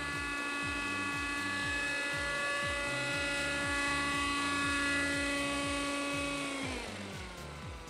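Kyosho Nexus nitro RC helicopter's glow engine and rotor running with a steady high whine. About seven seconds in the pitch falls as the throttle comes down.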